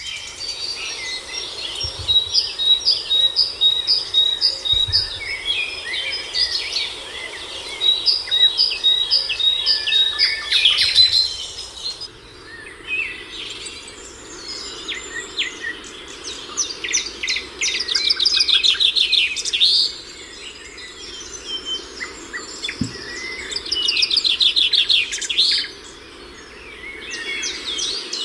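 Several songbirds singing together in a chorus. For the first ten seconds one bird repeats a high note two or three times a second, and further on rapid high trills come in bursts.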